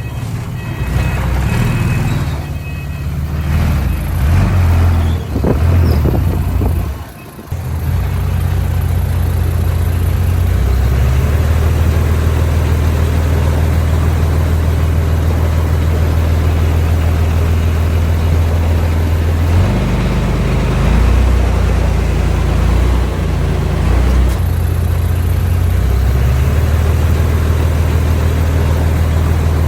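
Heavy diesel engine of earthmoving machinery running with a steady deep note. The sound is uneven for the first several seconds, with a brief dip about seven seconds in, then holds steady with small shifts in load.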